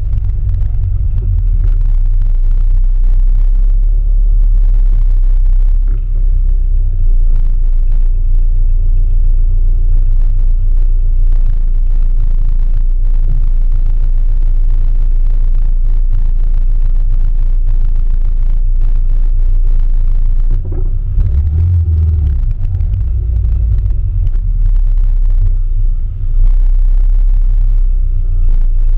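Classic Mini's four-cylinder engine running at low speed in a slow crawl, a loud, steady low rumble picked up from right on top of the bonnet, with a short surge in the engine note about three-quarters of the way through.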